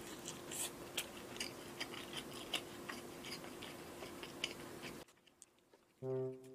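Close-miked mouth sounds of chewing roast chicken: small wet clicks and crackles over a faint steady hum. About five seconds in they cut off abruptly to near silence, and harmonica-led background music starts near the end.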